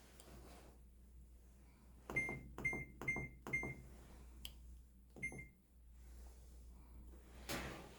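Control-panel buttons on a top-loading washing machine being pressed, each press a click followed by a short beep. Four presses come in quick succession about two seconds in and another a little after five seconds, then a brief rushing noise near the end.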